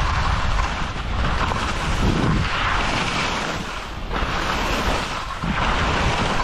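Wind buffeting the microphone: a loud rushing noise with a low rumble, swelling and easing every second or so.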